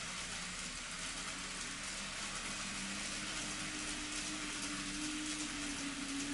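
N scale model train running on the layout's track: a steady rolling hiss of wheels on rail with faint fine clicking. Under it is the hum of the model's motor; one hum fades out about two and a half seconds in, and a higher hum comes up a moment later.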